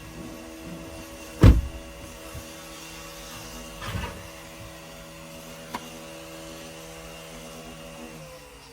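A small electric motor runs with a steady whine and winds down near the end. A loud knock comes about a second and a half in, a softer one near four seconds and a small click near six.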